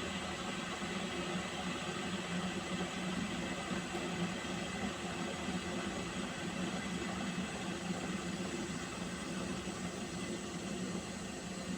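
Water heating to a boil in a pot: a steady rumbling hiss with a low hum, unchanging throughout.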